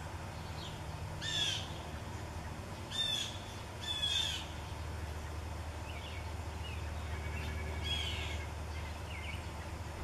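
Bird calls: short, harsh calls about a second in, twice more around three and four seconds, and again near eight seconds, with fainter chirps between them, over a steady low hum.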